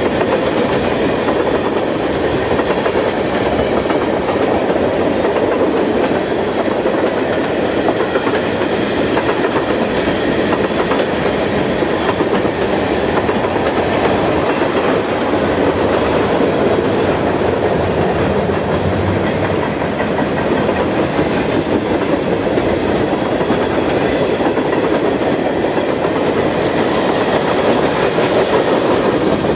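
Freight train cars rolling past, a steady loud rumble with the clickety-clack of wheels over the rail joints.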